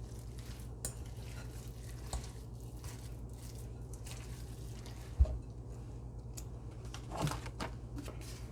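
A spoon stirring and scraping a creamy cheese filling in a bowl, with light clinks and one dull knock about five seconds in, over a steady low hum.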